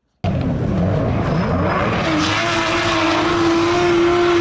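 Lexus SC300 engine running hard, its note climbing about two seconds in and then held steady, with a rushing noise over it; it starts abruptly.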